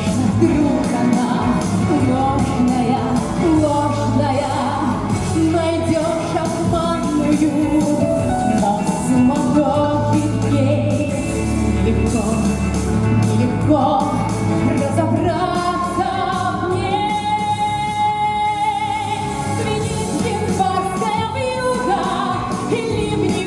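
A pop song performed live: a woman singing over band accompaniment, holding one long note with vibrato partway through.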